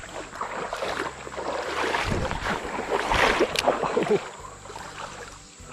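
Creek water splashing and sloshing, building to its loudest in the middle and easing off near the end.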